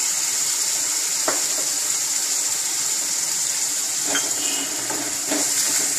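Ground masala paste and drumstick pieces sizzling steadily in hot oil in a kadai, stirred with a metal ladle.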